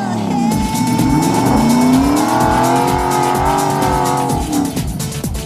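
Off-road competition truck's engine revving hard: it climbs, holds high for a few seconds, then drops away near the end.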